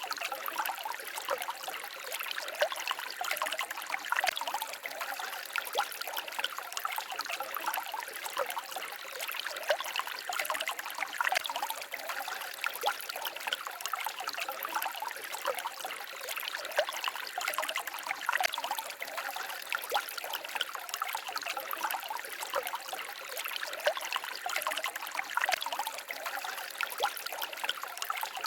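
Small forest stream babbling and trickling over stones, a steady splashing with many small bright splashes.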